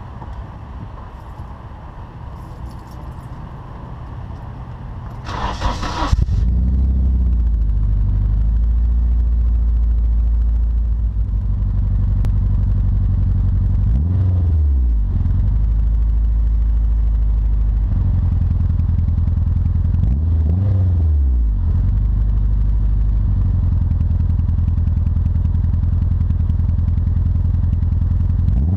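Turbocharged Nissan 240SX's KA24DE-T 2.4-litre four-cylinder being started about six seconds in, catching after a short burst of cranking, then idling steadily with three brief revs. This is the restart after a Seafoam soak, when the engine burns the cleaner off.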